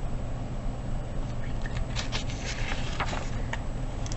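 Soft rustling and a few light clicks, typical of a picture book's page being handled and turned, over a steady low hum.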